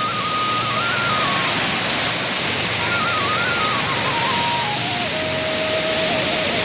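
Steady rushing noise of a waterfall. Over it runs a single thin, whistle-like melody that moves up and down in pitch and settles lower from about halfway.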